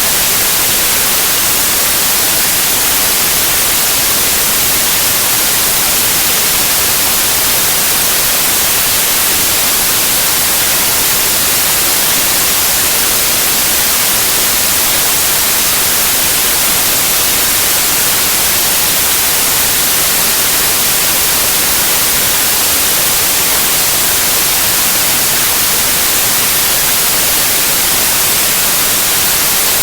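Steady white noise, an even hiss that is strongest in the high frequencies and never changes.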